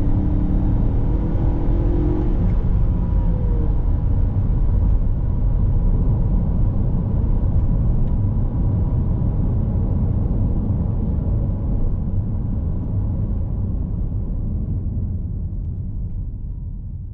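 Ford Escape ST-Line's 2.0-litre turbocharged four-cylinder holding a steady note, then dropping in pitch about three seconds in as the car comes off the throttle after an acceleration run. A low, steady rumble of road and tyre noise follows and fades out near the end.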